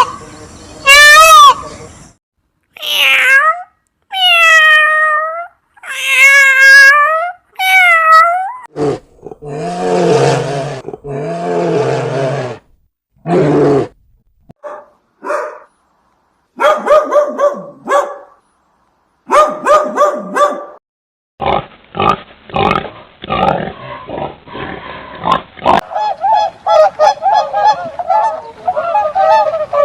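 A run of different animal calls one after another with short gaps: high pitched calls in the first seconds, two rough, low calls in the middle, short clicks and calls, then fast repeated honking calls near the end.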